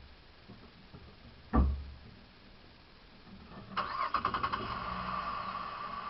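A single loud, deep pop, then about two seconds later a motor starting up with a quick run of clicks and settling into a steady whine.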